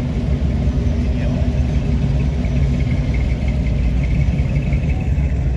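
A car engine running with a low, steady rumble.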